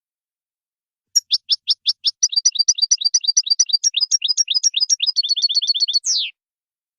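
European goldfinch singing a Wadani-style song phrase: after about a second of silence, a fast run of high repeated chirps that speeds up and ends in one falling note about six seconds in.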